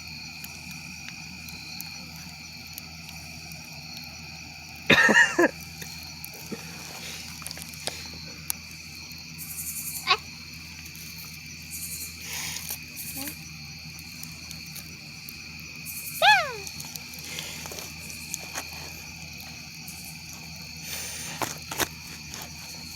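Steady night chorus of crickets, a continuous high trill. It is broken by a few sharp clicks, a brief loud sound about five seconds in, and a quick falling squeal about sixteen seconds in.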